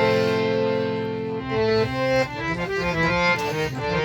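Harmonium playing a melodic interlude in a qawwali. It holds sustained reedy notes for about the first second and a half, then moves through quicker changing notes.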